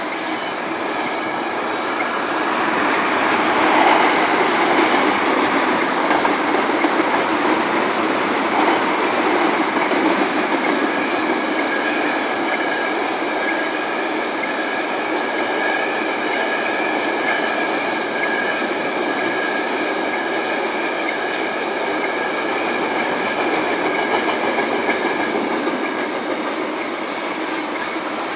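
Tank cars of a CP ethanol freight train rolling past at steady speed: a continuous rumble and rush of steel wheels on rail. A faint steady high ringing tone joins about a third of the way in and holds.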